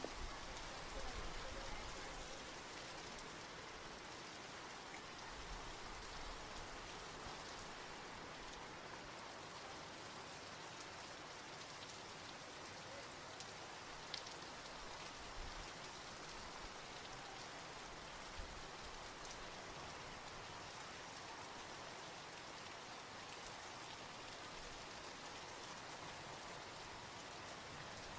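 Steady, soft rain falling, an even hiss with a few sharper drop ticks now and then.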